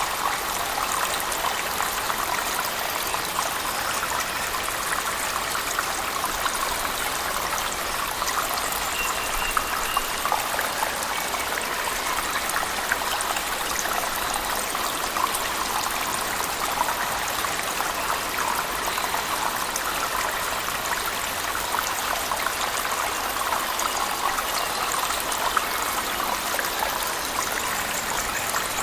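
Steady rush of water from a waterfall mixed with heavy rain, a dense even splashing with many fine drop spatters.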